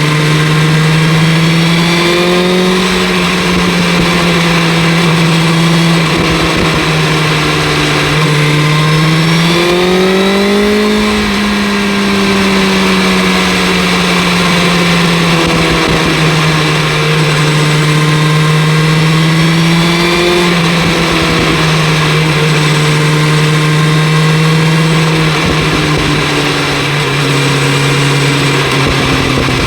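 The inline-four engine of a 2025 BMW S1000 RR with an Akrapovic exhaust, running at a steady cruise under light throttle. Its pitch swells and eases gently a few times, most clearly about a third of the way in.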